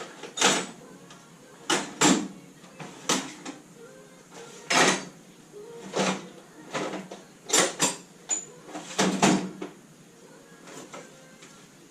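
Irregular sharp metallic knocks and clanks, about a dozen, from hand tools and parts being handled during work on a classic Mini's engine.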